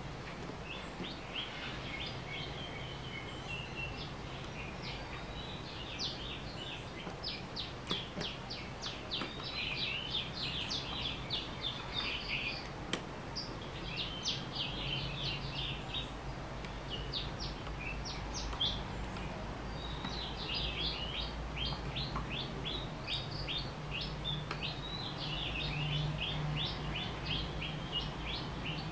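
Small birds chirping, many quick high calls in a steady chatter, over a low steady hum.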